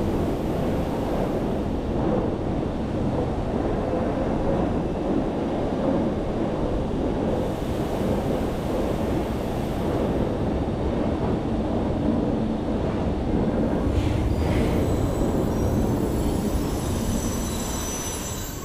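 Rack-railway (cogwheel) train running slowly into a station, a steady low rumble of wheels and running gear. Faint high-pitched squeals come in near the end as the train slows to a stop.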